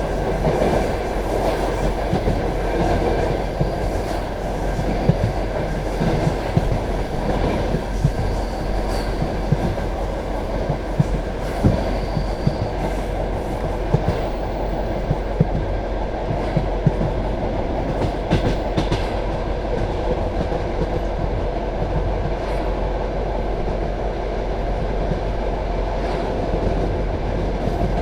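Passenger train carriage running along the track: a steady rumble of wheels on rail, with irregular sharp knocks as the wheels pass over rail joints, heard through the carriage window.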